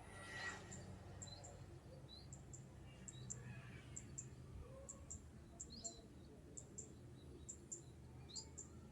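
Faint high-pitched bird chirps, short notes often in pairs, repeating every second or so, with a few small rising calls, over a faint low steady hum.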